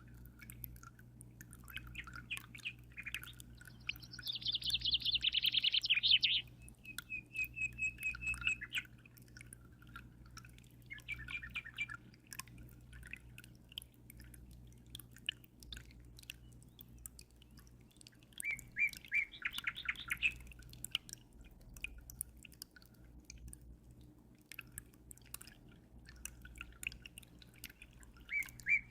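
Small birds chirping and trilling in fast runs of repeated high notes, the loudest trill a few seconds in and more near the middle and end, over the steady patter of dripping water and a low steady hum.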